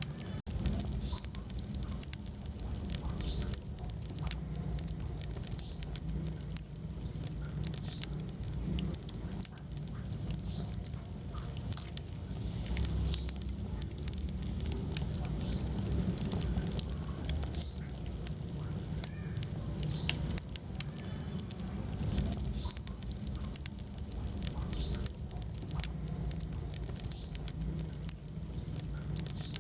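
Wood fire in a fireplace crackling and popping continuously over a steady low rumble of flames, with occasional short high squeaks.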